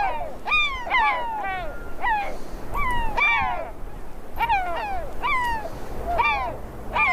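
A group of animals calling: many short, clear calls, each falling in pitch, overlapping one another at about one or two a second.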